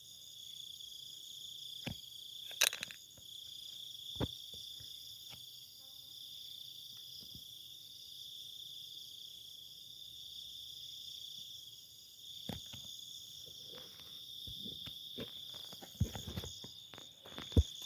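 A steady, high-pitched insect chorus, a continuous shrill trill that does not break. Scattered clicks and knocks sound over it, a sharp one about two and a half seconds in and a cluster near the end.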